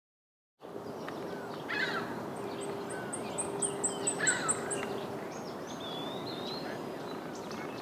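Several wild birds chirping and calling over a steady outdoor background noise, with a quick series of about eight high, thin notes in the middle. A faint, steady low hum runs under the first few seconds.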